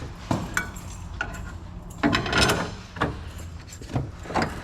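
Scattered metallic clicks, clinks and knocks of suspension parts and tools being handled and pushed into place under a car, with a short flurry of them about two seconds in.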